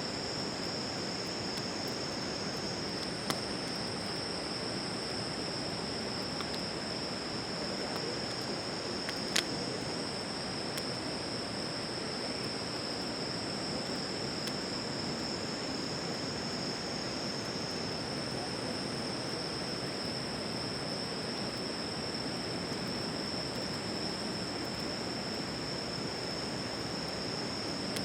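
Steady chorus of night insects, a continuous high-pitched trill, over an even background hiss. Two sharp clicks cut through, one about three seconds in and a louder one about nine seconds in.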